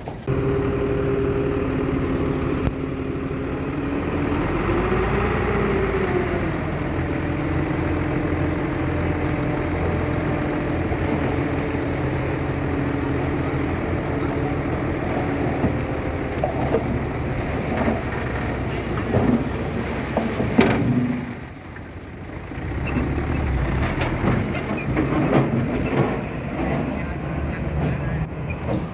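Diesel engine of heavy earthmoving equipment running steadily, its pitch rising and falling briefly about five seconds in. In the second half a series of metallic clanks and knocks comes through, with a short drop in level about three quarters of the way through.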